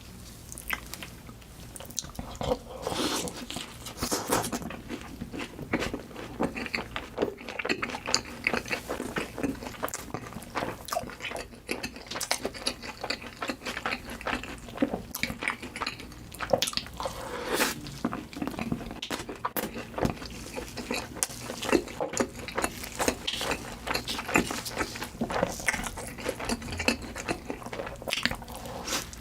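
Close-miked eating: a person biting and chewing crunchy food, with many quick, irregular crunches and wet mouth sounds throughout.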